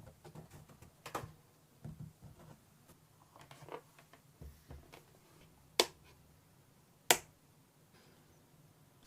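Scattered light taps and clicks of small objects being handled, with two sharp clicks about six and seven seconds in.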